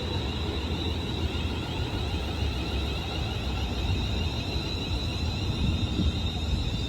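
Class 350 Desiro electric multiple unit standing at a platform, giving a steady high-pitched whine over a low rumble.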